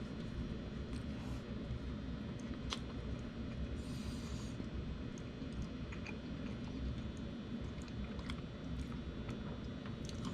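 A person biting into and chewing a lobster roll, with small soft clicks, over a steady low background rumble.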